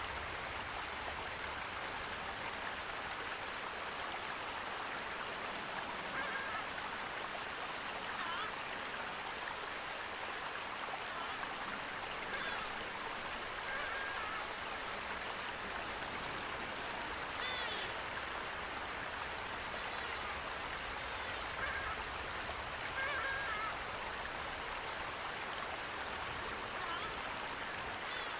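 Steady rushing of running water, with short bird calls rising above it every few seconds.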